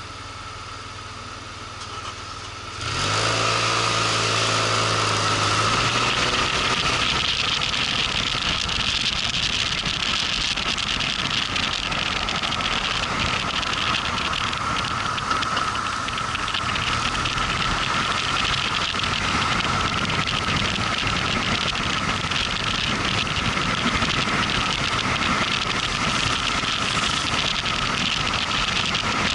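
Motorcycle engine idling quietly, then about three seconds in pulling away with a sudden rise in engine sound and shifting pitch, followed by steady riding noise of engine and rushing wind on the microphone. A steady high whine runs underneath throughout.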